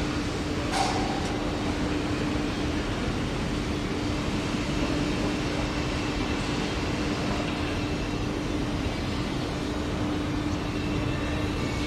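Railway noise at a station throat: an electric passenger train running slowly, with a steady hum and rumble under a constant mid-pitched drone. A short hiss comes about a second in.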